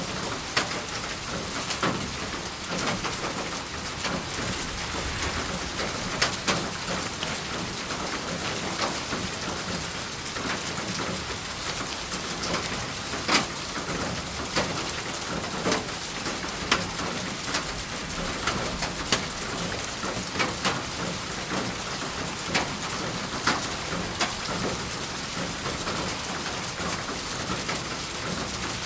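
Steady rain: a constant even hiss, with sharp louder drops striking a surface every second or so.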